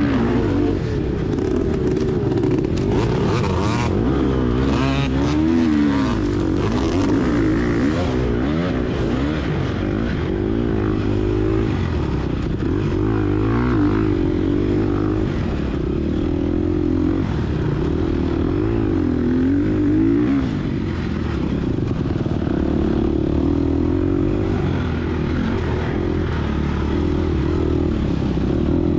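2022 Gas Gas EX250F's 250 cc four-stroke single-cylinder engine revving up and down continuously as the dirt bike accelerates and shifts through the sand course.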